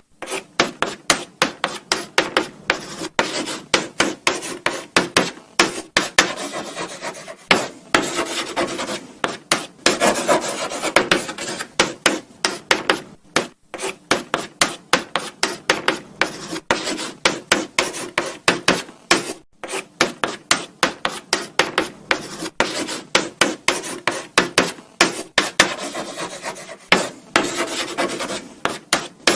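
Chalk writing on a blackboard: a quick, uneven run of short scratchy strokes and taps, with brief pauses between words.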